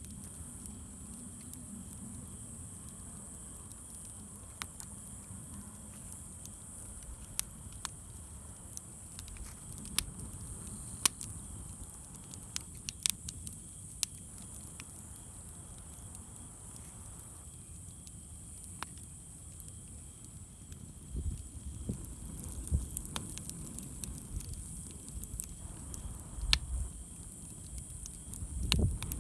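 Wood campfire crackling, with sharp irregular pops and snaps of burning wood. A low rumble joins it in the second half.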